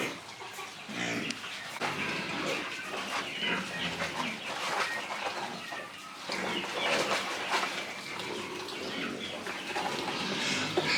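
Farm animals and birds calling: a steady, busy mix of many short calls.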